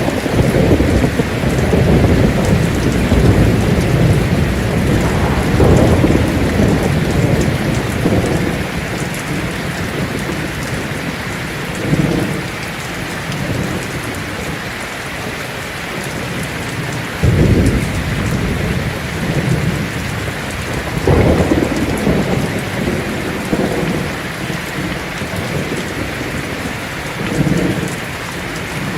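Heavy rain falling steadily on a tin roof, with thunder rolling. A long, deep rumble fills the first eight seconds or so, and shorter rolls break in about 12, 17, 21 and 27 seconds in; the one at 17 seconds starts most suddenly.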